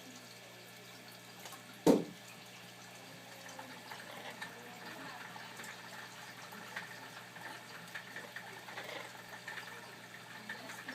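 Faint, steady trickling water with a low hum beneath it. A single sharp knock about two seconds in.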